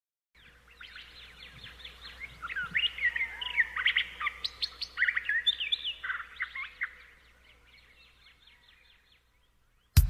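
Birds chirping and singing in quick overlapping calls, fading in at the start, busiest in the middle and dying away after about seven seconds; a sudden loud hit right at the end.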